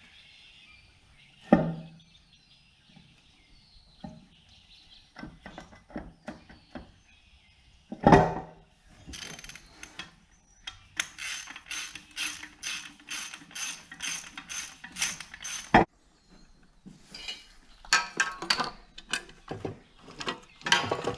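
Hand ratchet wrench clicking in runs of about three strokes a second while bolts are run down, with a few sharp metal knocks in between.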